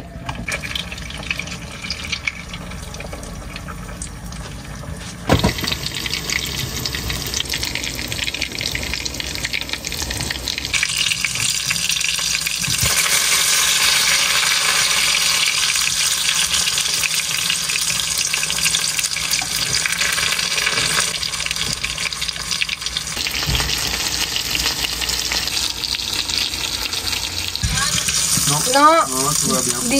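Breaded chicken cutlets (chicken katsu) sizzling as they fry in hot oil in a frying pan. The sizzle gets louder about five seconds in and stays loud.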